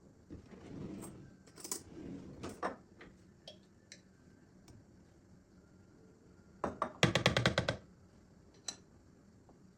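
Kitchen work: light clinks and soft rustling handling, then a quick run of about a dozen sharp knocks a little after halfway, the loudest part.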